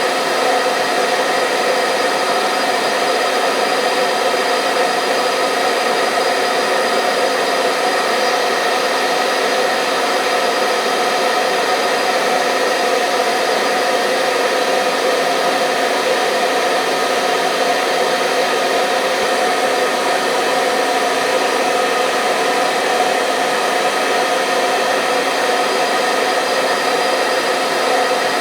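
Hair dryer running steadily: an even rush of blown air with a motor hum of several steady tones on top, unchanging throughout.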